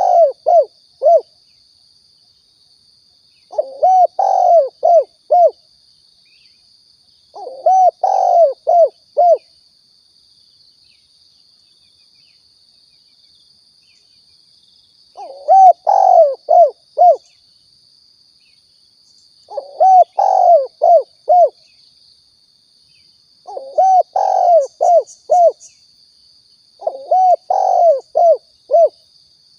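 Spotted dove (tekukur) song: about seven loud phrases of four or five quick rising-and-falling coos, each phrase about two seconds long, with one longer pause in the middle.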